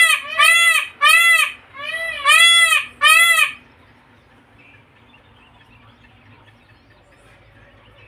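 A large bird giving a rapid series of loud, short calls, about six in all at roughly two a second, which stop about three and a half seconds in; after that only faint background remains.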